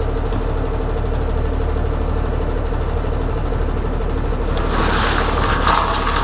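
Ford Cargo 2628 dump truck's diesel engine running steadily, heard from inside the cab, with a low hum and a steady whine. About four and a half seconds in, a hissing, crackling noise with a few clicks starts up and continues.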